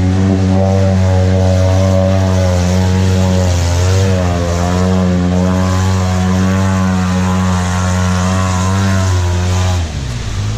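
Off-road vehicle engine held at a steady high drone, its pitch wavering briefly about four seconds in, then dropping off near the end.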